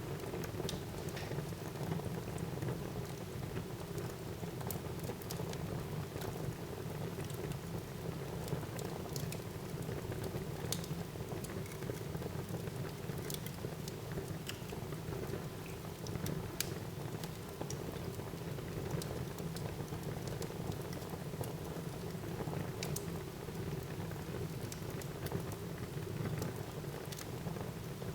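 Fire burning in a fireplace: a steady low rushing hiss with scattered sharp crackles and pops throughout.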